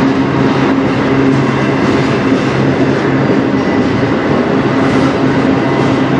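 A freight train of autorack cars rolling past close by: a steady, loud rumble of steel wheels on the rails, with a low hum that comes and goes.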